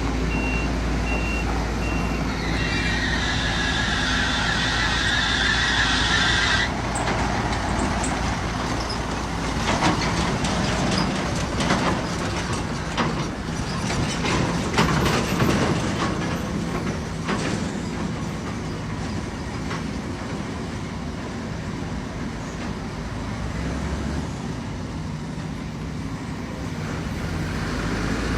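Heavy-equipment diesel engines running steadily, with a reversing beeper sounding for the first couple of seconds. A high squeal follows for about four seconds, then a stretch of irregular metal clanks and knocks.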